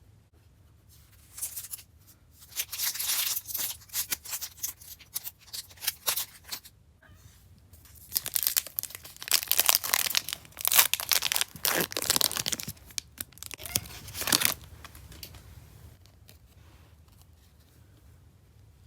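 Plastic wrapping of basketball trading card packs being torn open and crinkled by hand, in two long bouts of crackling and tearing, the second louder, with faint handling before and after.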